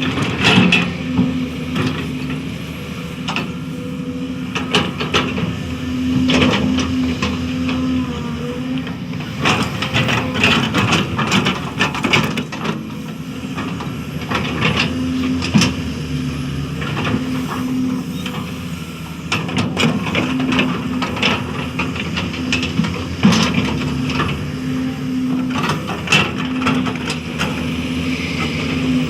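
Hydraulic excavator's diesel engine running steadily under load, with irregular clanks and scraping as the bucket digs and moves soil.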